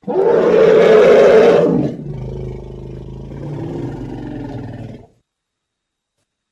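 Elephant roaring loudly for nearly two seconds, then a quieter, lower-pitched call for about three more seconds that cuts off suddenly.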